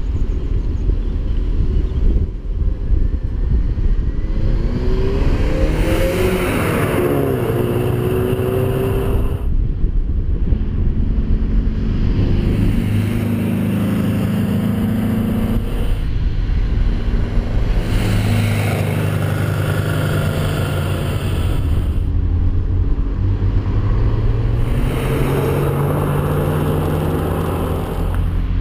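Classic Porsche sports car engines accelerating along a winding road, their pitch rising again and again as they pull through the gears. A few cars pass by, and the sound changes abruptly several times.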